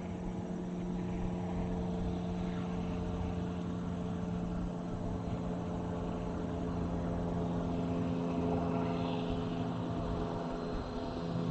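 Diesel locomotive engine running with a steady low drone, growing slightly louder toward the end.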